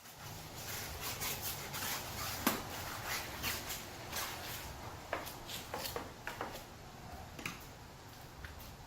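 Scattered clicks, light knocks and rubbing from things being handled, over a low rumble, the clicks thicker in the first half and thinning out later.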